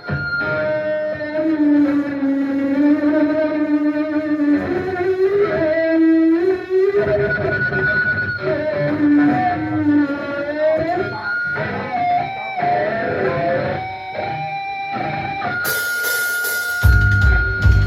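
Live rock band music: a guitar plays a slow melody of long, gliding notes, then cymbals and drums come in near the end.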